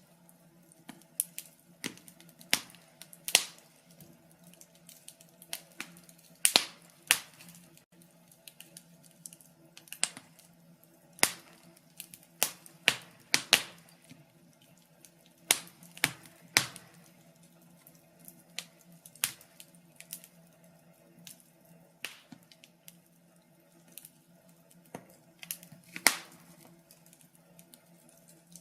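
Wood fire crackling: irregular sharp pops and snaps, often a few close together, over a faint steady low hum.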